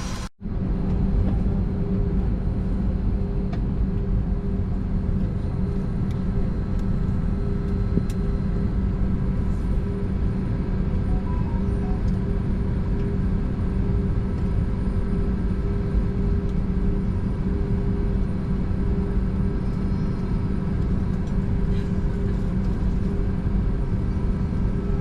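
Steady drone inside an Airbus A320 passenger cabin, with a constant low hum running under it. A brief drop-out right at the start.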